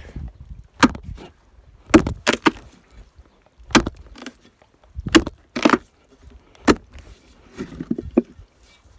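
Irregular sharp blows of a hand tool on wood, about ten strikes, some in quick pairs and threes.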